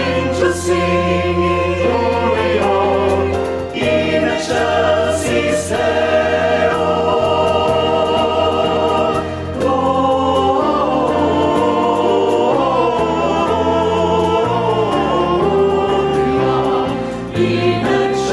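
Choir singing a Christmas anthem in sustained, held chords over a steady low bass line.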